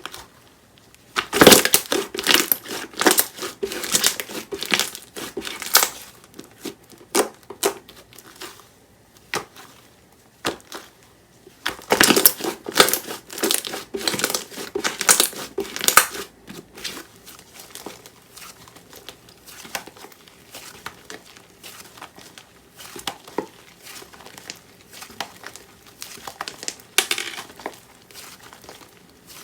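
Grape jelly foam slime being squeezed and pressed by hand, giving dense crackling and crinkling clicks in irregular bursts, thickest near the start and about halfway through, with sparser crackles in between.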